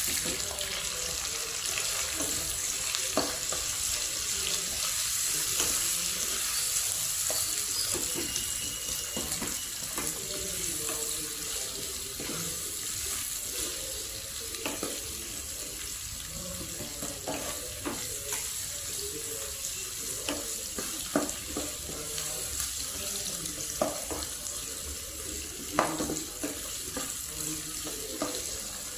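Onions, garlic, chillies and curry leaves sizzling steadily in hot oil in a non-stick pan, with the spatula tapping and scraping against the pan now and then as they are stirred.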